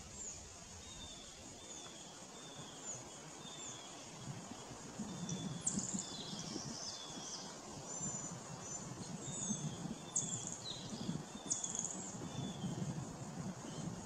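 Birds calling in woodland: a steady series of short, down-slurred notes repeated a little faster than once a second, with a few sharper, higher calls in the middle. A low rumble sits underneath from about a third of the way in.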